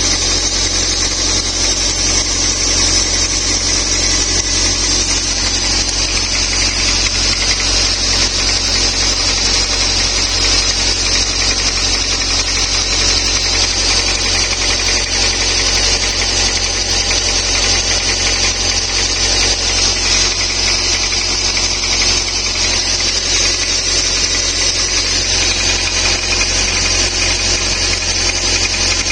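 Toyota MR-S's 1ZZ-FE 1.8-litre four-cylinder engine running at a steady speed, heard close to the camshaft and valvetrain: an even mechanical whir with a strong high hiss that does not change.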